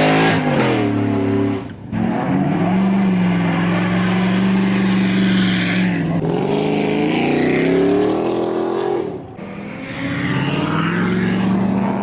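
Car engine revved hard and held at high rpm in long steady pulls, with a loud hiss over it. It drops off abruptly twice and picks up again.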